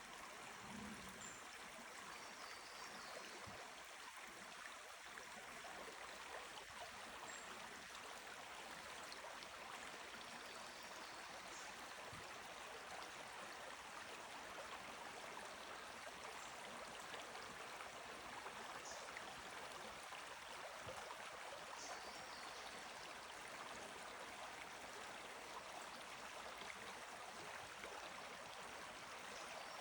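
Creek water flowing: a faint, steady rush.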